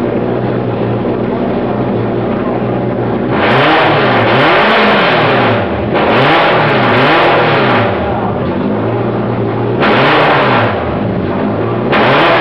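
BMW E36 car engine idling steadily, then revved up and let fall back several times, starting a few seconds in.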